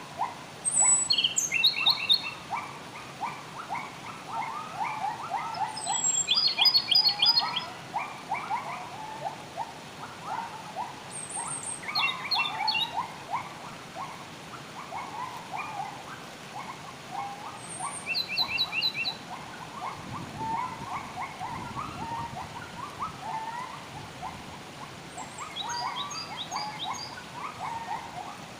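Wild birds singing. One bird repeats a short phrase about every six seconds, a high down-slurred whistle followed by a quick run of notes, over a steady chatter of short, lower calls.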